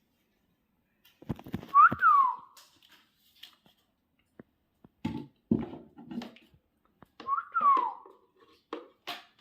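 Two whistles, each rising then falling, about two seconds in and again about seven and a half seconds in, with soft knocks and rustles between them.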